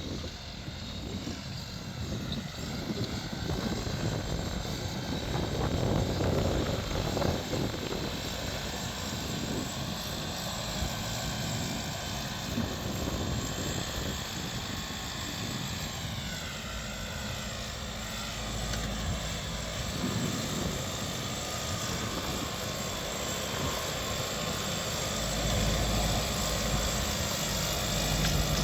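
Deutz-Fahr 5125G tractor's diesel engine running under load, its pitch dipping and then climbing again about halfway through as the engine speed changes.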